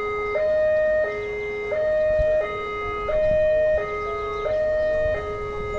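Railway level-crossing warning alarm sounding a steady two-tone signal, switching between a higher and a lower note about every 0.7 seconds, which warns that a train is approaching.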